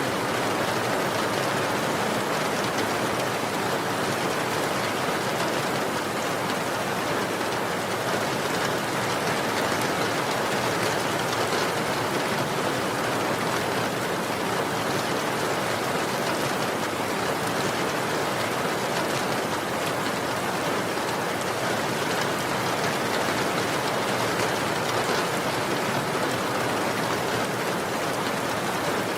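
Steady heavy rain, an even dense hiss of falling drops with no thunder or distinct strikes.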